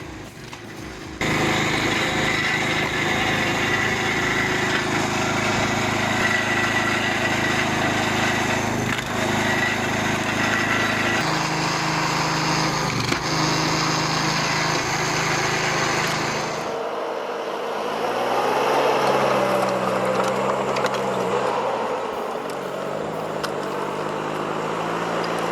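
A machine's engine running steadily, its pitch stepping down about 11 seconds in. Around 17 seconds it gives way suddenly to a different, quieter engine sound whose pitch rises and falls.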